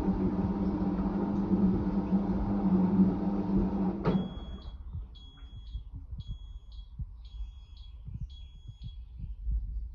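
Fisher & Paykel IW812 washing machine's motor running with a steady hum, cutting off about four seconds in, followed by about six short evenly spaced high beeps: the machine's end-of-cycle signal.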